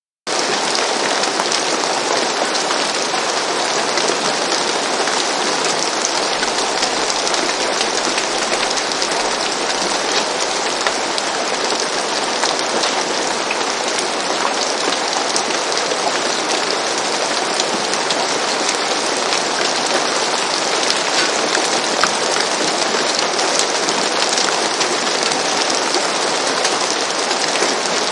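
Steady rain falling on a roof, a dense even hiss of many small drop impacts, starting abruptly out of silence just as it begins.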